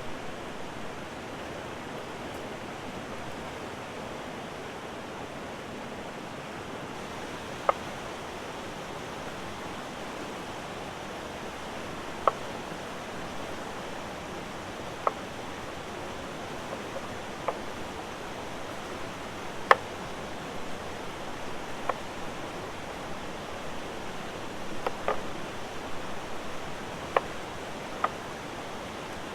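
River water rushing steadily, with sharp single pops from the campfire every few seconds.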